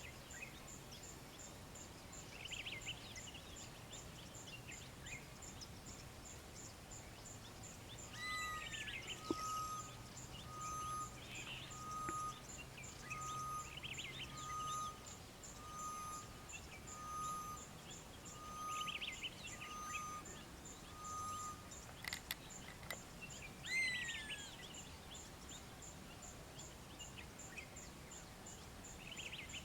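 Faint wild bird chorus in coastal East African bush, several species calling. Through the middle one bird repeats about a dozen short, level whistles roughly one a second, while others give downward-sliding calls and warbling chirps. A steady, high, rapid ticking runs throughout.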